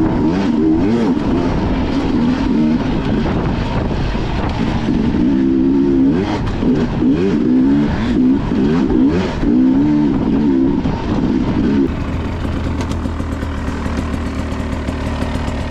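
Enduro dirt bike engine revving up and down as it is ridden over rough trail, its pitch rising and falling many times. About twelve seconds in it settles to a steadier, lower, slightly quieter run.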